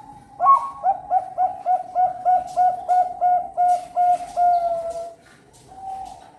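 Bangkok-line zebra dove (perkutut) singing its cooing song: a soft opening note, then a fast, even run of about fifteen short coos, roughly four a second, ending in one longer drawn-out coo. A single further coo follows near the end.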